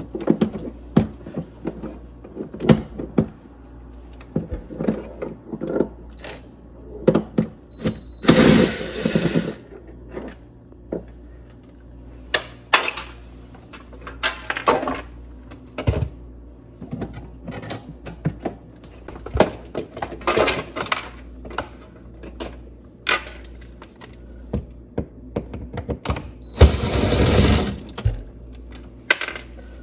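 Irregular knocks, clicks and clatter of tools and plastic parts as a refrigerator is taken apart, with two short bursts of rushing noise, one about eight seconds in and one near the end, over a steady low hum.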